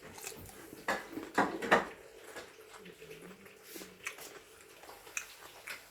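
Close-up eating sounds: a few sharp crunching clicks a second or two in, then small mouth ticks and a brief low hum.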